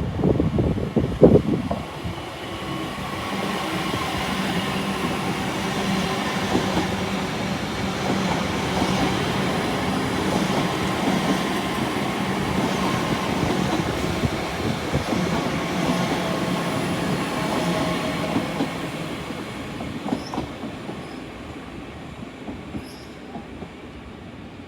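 Train passing through a station: a few loud knocks at the start, then a steady hum with several tones that holds for about fifteen seconds and fades away near the end.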